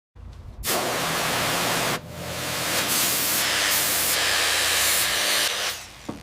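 A loud, steady hiss with a faint low hum beneath it. It starts about half a second in, dips briefly about two seconds in, and stops shortly before the end.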